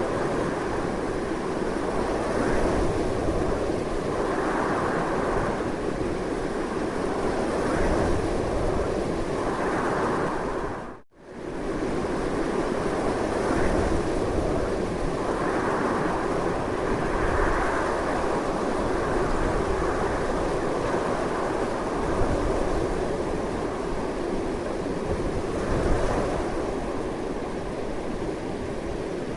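Strong wind blowing continuously, a dense rushing noise that swells and eases in slow gusts. It cuts out abruptly for a moment about eleven seconds in, then resumes at the same strength.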